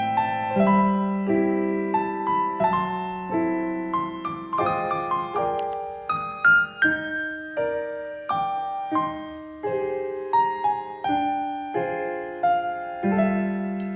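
Background music: a gentle piano melody, played note by note with sustained chords beneath.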